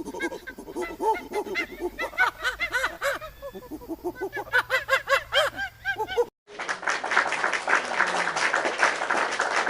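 A flock of fowl calling in quick, short calls that each rise and fall in pitch. About six and a half seconds in, it cuts off and recorded applause begins.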